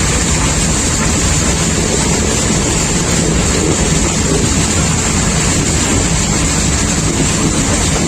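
Steady rumble and hiss of an intercity passenger train running, heard from on board.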